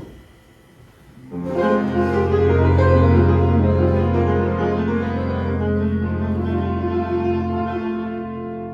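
Jazz band ending a song: a sharp stop, a pause of about a second, then one long held closing chord that slowly fades.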